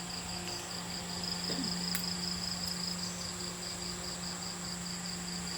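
Insects chirping in a steady pulsing rhythm, about four pulses a second, over a continuous high trill, with a steady low hum underneath.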